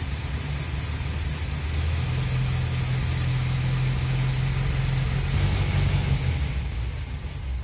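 Toyota Town Ace van running in fourth gear with the rear brake drum off, so the rear axle shaft and hub spin freely: a steady low engine and drivetrain hum that rises a little after a couple of seconds. There is no clear bearing howl, though worn rear axle hub bearings are the suspected source of the van's whining on the road.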